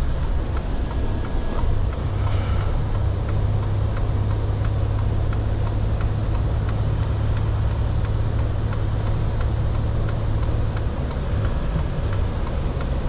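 Articulated lorry's diesel engine running with a steady low drone, heard from inside the cab as the truck rolls slowly along.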